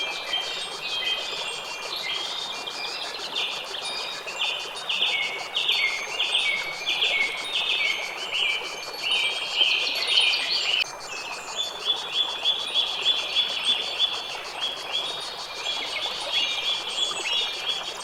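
Birds chirping in a busy stream of short repeated notes, over a fast, even high-pitched ticking trill.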